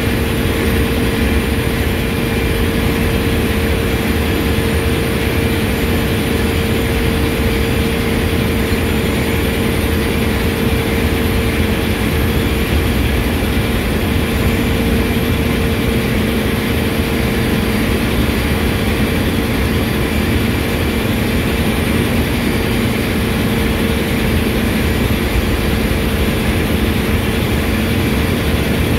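Lube oil centrifugal purifier and surrounding engine-room machinery running steadily, a loud, even mechanical din with a constant hum at two pitches.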